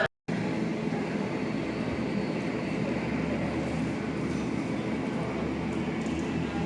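Steady rumbling vehicle noise with a low hum, starting after a brief cut to silence.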